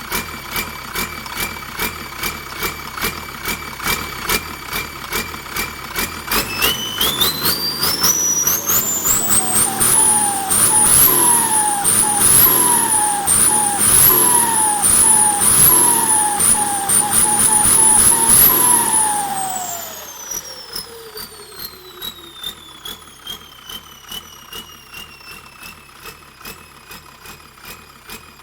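Holset turbocharger whistling on an idling engine with a steady rhythmic knock. About six seconds in the engine is revved and the turbo whine climbs steeply to a very high pitch, then warbles up and down in pulses as the throttle is worked. After about nineteen seconds it spools down slowly as the engine drops back to idle.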